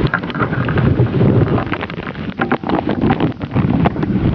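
Wind buffeting the microphone during a snowstorm, a loud uneven rush with many short sharp crackles through it.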